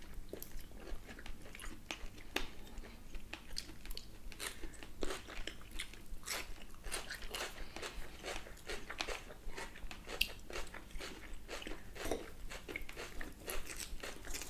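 Close-up chewing of grilled beef steak: a dense, irregular run of wet mouth clicks and smacks, with knives and forks now and then clicking and scraping on plates.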